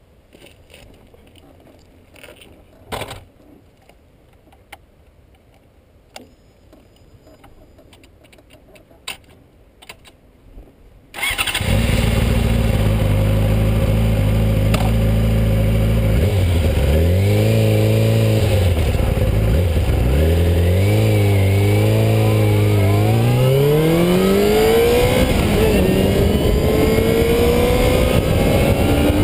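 Faint clicks and knocks, then about eleven seconds in a Yamaha YZF-R6 sport bike's inline-four engine comes in suddenly and idles. It is blipped a few times, then pulls away, rising in pitch, drops briefly at a gear change and climbs again.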